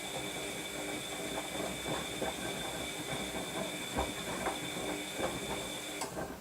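Washing machine running its wash: a steady high motor whine with a low hum under it and irregular knocks of the drum and laundry tumbling. About six seconds in, the motor cuts off suddenly.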